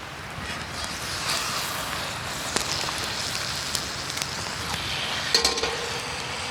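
Campfire crackling with a steady hiss and scattered sharp pops, and a brief ringing knock about five seconds in.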